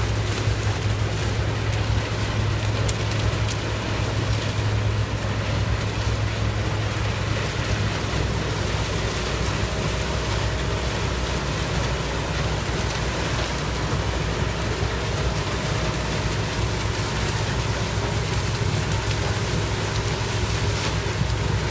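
Sugarcane harvesting machinery running steadily: a low engine drone with an even rushing noise over it.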